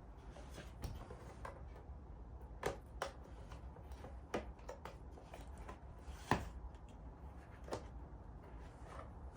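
Small parts and packaging of a diesel heater kit being handled: scattered light clicks and taps, with a few sharper knocks, the loudest about two thirds of the way through.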